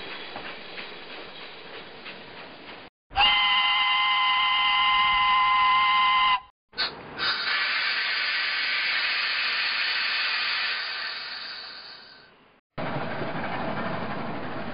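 A steam locomotive's chime whistle sounds one steady blast of about three seconds, several notes at once, then steam hisses and fades away over about six seconds. Before the whistle a rattling train sound cuts off, and near the end a different train sound starts.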